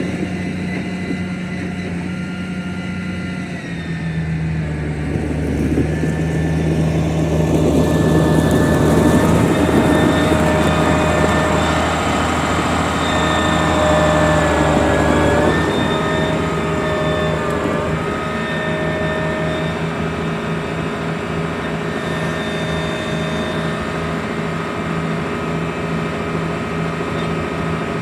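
Case IH MX135 tractor's Cummins 5.9 six-cylinder turbo diesel running, its note shifting a few times, with a high thin whine that slides in pitch. It gets louder a few seconds in and eases back a little past the middle.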